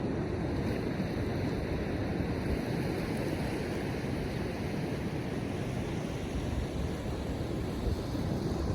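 Ocean surf washing on the beach with wind blowing on the microphone, a steady rushing noise.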